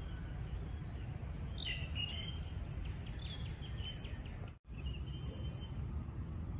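Small birds chirping, a few quick high calls and then a short run of chirps, over a steady low rumble. The sound cuts out for an instant about four and a half seconds in.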